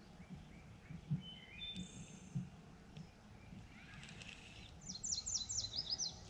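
Songbirds chirping around a creek, ending in a quick run of about eight high notes that each fall in pitch. A few soft low knocks sound underneath, the loudest about a second in.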